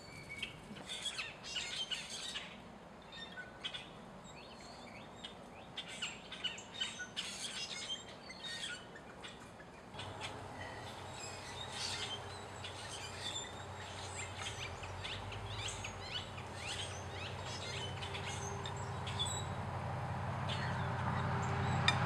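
Wild birds chirping in many short, scattered calls. From about halfway a low, steady rumble comes in and grows louder toward the end.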